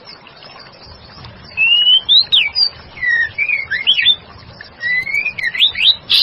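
Female white-rumped shama singing: two runs of loud, clear whistled notes sliding up and down. The song starts about one and a half seconds in, with a short pause between the runs.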